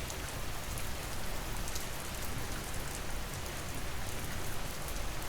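Steady rain falling as an ambient rain track: an even hiss with scattered high drop ticks and a low rumble underneath.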